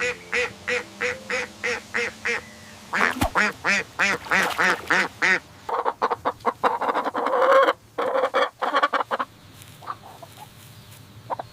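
Duck quacking in quick runs of repeated calls, about three quacks a second, with a busier stretch of overlapping calls in the middle that fades to fainter quacks near the end.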